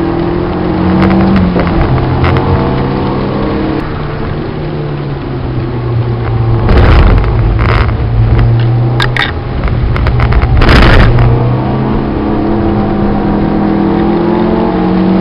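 Citroën Saxo VTS engine heard from inside the cabin under track driving. The engine note drops about a second and a half in, holds steady, then climbs steadily near the end as the car accelerates. Two loud rushing noises break in about midway.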